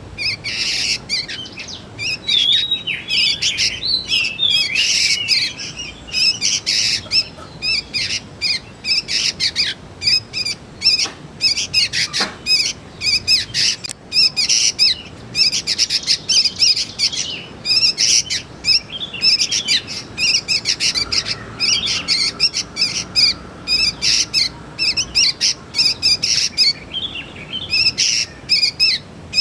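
Juvenile sooty-headed bulbuls (kutilang) chirping without pause: a dense stream of rapid, high, twittering notes and quick sweeps.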